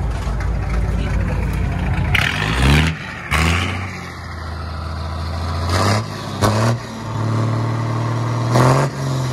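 6D16 six-cylinder diesel engine idling steadily, then revved in about five short blips, its pitch jumping up and falling back each time.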